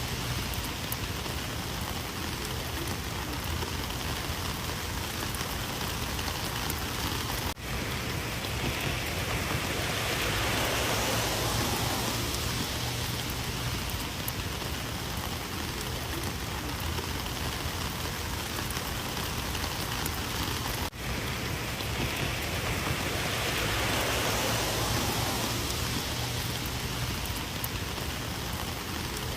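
Rain falling steadily, a dense hiss of drops that swells a little now and then and cuts out for an instant twice.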